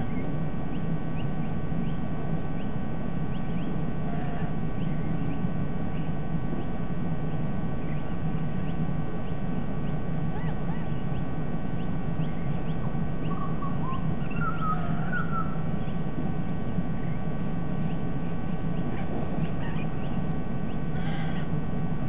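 A steady low background rumble from the outdoor nest-camera microphone, with faint scattered bird calls and a short run of clearer calls about two thirds of the way in.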